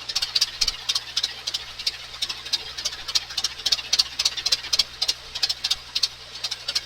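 Diesel engine running, with a fast, uneven clatter of sharp ticks, several a second.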